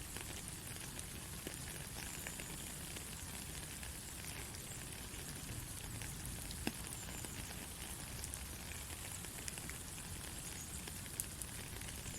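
Steady light rain falling, an even hiss with scattered individual drops ticking, two of them standing out near the middle and near the end.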